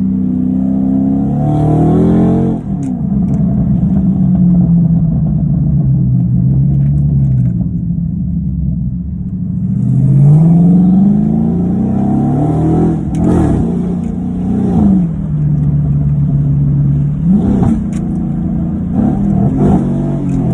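Dodge Charger R/T's V8 engine revving up and easing off several times, its pitch climbing and dropping through the gears. In the second half there are several sharp pops from the exhaust.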